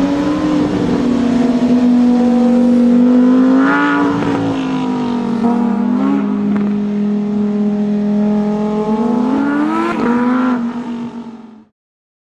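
Ferrari 812 Competizione A's naturally aspirated 6.5-litre V12 running at a steady engine speed, with a brief rise in revs about four seconds in and another near the end. The sound stops abruptly just before the end.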